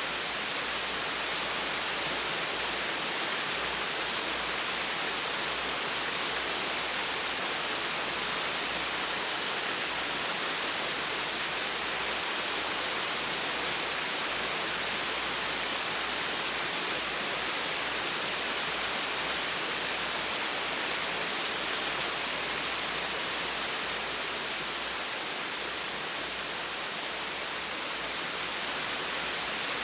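Small waterfall splashing steadily, a constant even rush of falling water.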